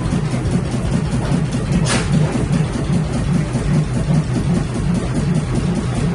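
Stationary engine running with an even, rhythmic beat, and a brief sharp hiss about two seconds in.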